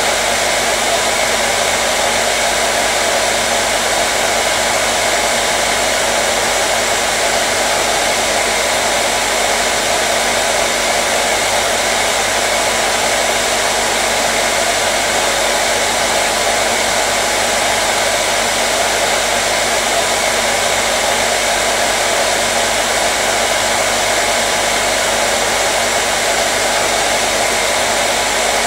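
Hair dryer running continuously at a steady speed, a loud, even whooshing hiss with a faint steady hum and no change in pitch or level.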